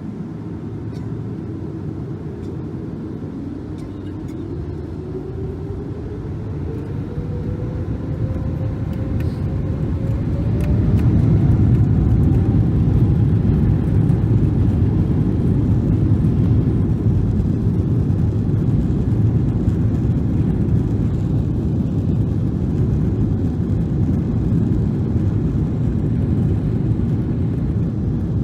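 Boeing 777-300 jet engines heard from inside the cabin spooling up for takeoff: a whine rising in pitch over about ten seconds as the rumble grows louder, then a steady loud rumble of engines at takeoff thrust and the takeoff roll.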